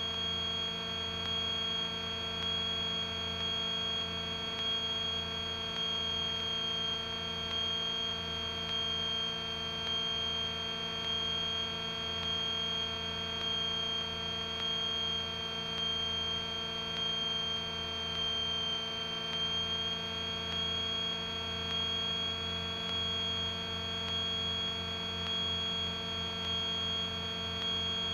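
Steady drone of the GA-7 Cougar's twin piston engines and propellers, heard through the cockpit intercom, with a slowly pulsing low hum and a high steady whine on top.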